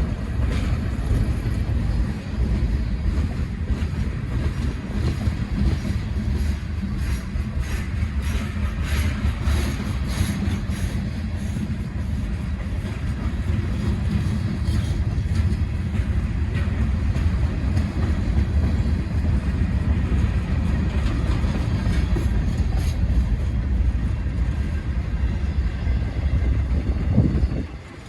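Freight train of hopper cars rolling past: a steady low rumble of wheels on rail with rattling and scattered clicks and knocks, thickest about eight to eleven seconds in. The sound drops away briefly near the end.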